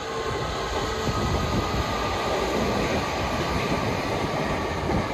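Red Meitetsu electric train passing on an elevated concrete viaduct, its wheels rumbling on the rails. It grows louder over the first second, then runs steadily as the cars go by.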